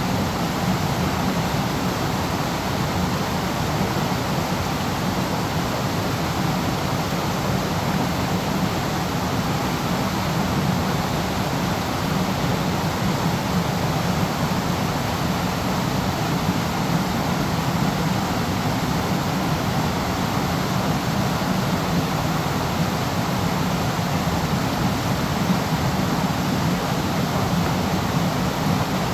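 Waterfall: a steady, even rush of falling water with a deep low rumble.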